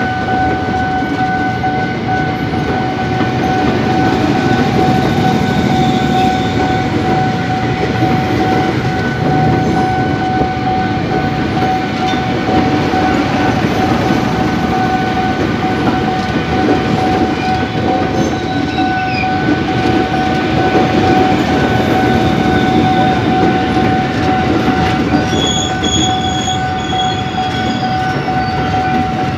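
KRL Commuterline electric commuter train passing close by, its wheels and cars rumbling and clattering on the rails. A steady high tone sounds throughout, and faint higher-pitched squeals come near the end.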